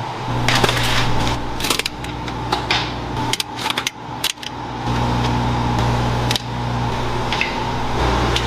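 Metal tools and transmission parts clicking and clinking against each other, several sharp knocks close together in the first half, over a steady low hum.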